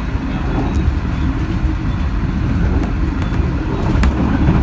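Steady low rumble of a moving H set passenger carriage running on the rails, with a few light ticks and a sharper click about four seconds in.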